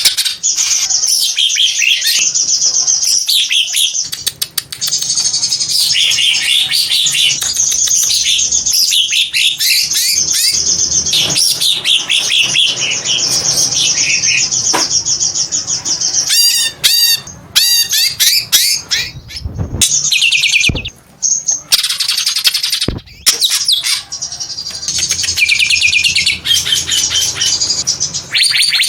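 Green cucak bird (greater green leafbird) singing a long, loud, fast-changing song of high chattering and whistled notes, broken by two brief pauses in the second half.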